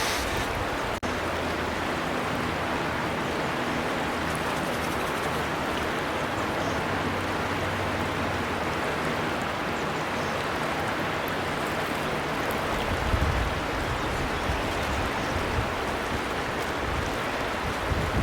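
River water flowing steadily, an even rushing with a brief dropout about a second in. Low rumbles come now and then in the second half.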